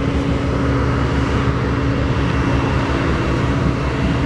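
BNSF GE C44-9W diesel-electric locomotive's 16-cylinder diesel engine running as the train moves past: a steady low throb with a constant hum on top.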